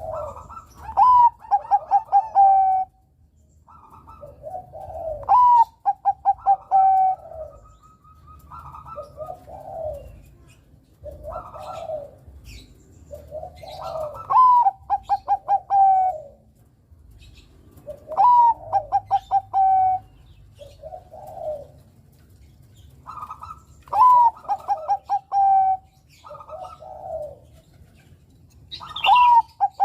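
Bangkok-line zebra dove (perkutut) cooing its song over and over. Each phrase about every four seconds opens with a rising note and runs into a quick series of pulsed coos, with quieter, lower phrases in between.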